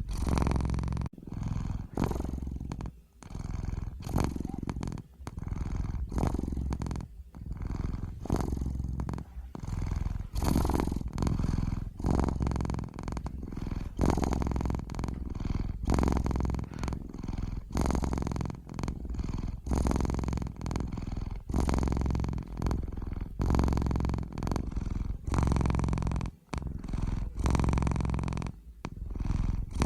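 Domestic cat purring, close up and continuous, in repeated breath-length phrases of a second or two with short dips between them.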